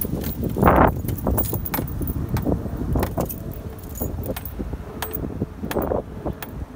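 SYM HD200 scooter's single-cylinder engine being cranked on the starter, turning over with rattling and clicking but not catching: a no-start.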